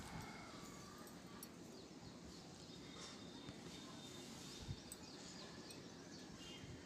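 Faint outdoor background with birds chirping now and then, and a single soft click a little before the end.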